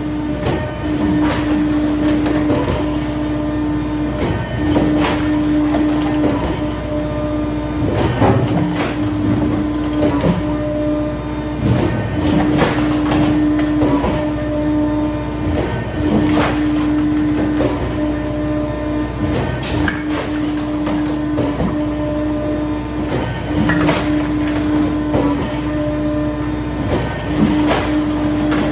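Electric hydraulic firewood splitter (F500) running: a steady motor-and-pump hum that breaks off briefly about every two seconds as the ram cycles, with frequent sharp cracks and knocks of logs being split.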